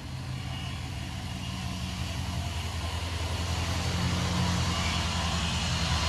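Chevy Corvette Stingray's 6.2L V8 idling through an aftermarket exhaust with long-tube headers: a steady low rumble that slowly grows louder.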